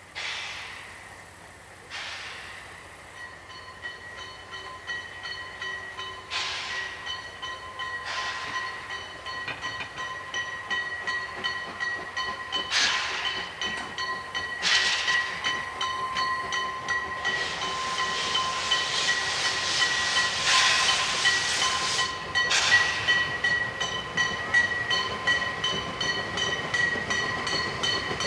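A narrow-gauge steam train approaching, growing steadily louder. Sudden bursts of steam hiss come more and more often, over a steady high-pitched ringing tone.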